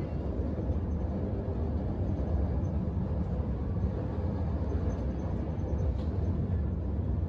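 Passenger train running along the line, a steady low rumble heard from inside the carriage.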